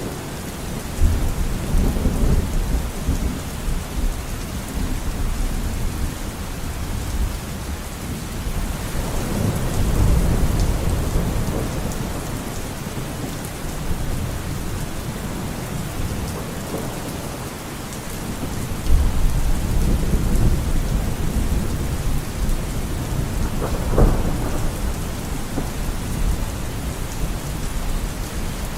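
Steady rain with thunder: several low rolling rumbles that swell and fade, and one sharper thunderclap near the end.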